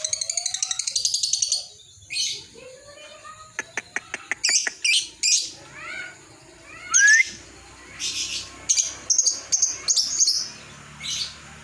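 Lovebird calling: a rapid, even chattering trill (the lovebird's "ngekek") for the first second and a half, then a string of short, shrill chirps and squeaks, with a few sharp clicks around the four-second mark.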